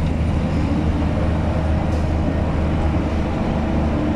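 Heavy truck's diesel engine running steadily under load on an uphill climb, a low even drone.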